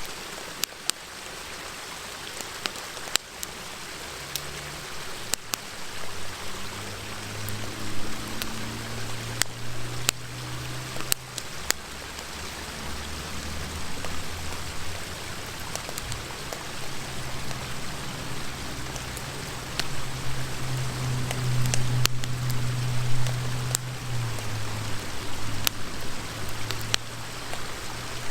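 Campfire crackling, with sharp pops scattered irregularly, over the steady rush of a river. A low drone comes and goes from about six seconds in.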